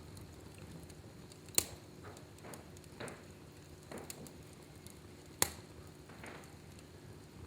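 Fire burning in a fireplace, crackling faintly, with two sharp pops, one about a second and a half in and one about five and a half seconds in, and softer ticks between them.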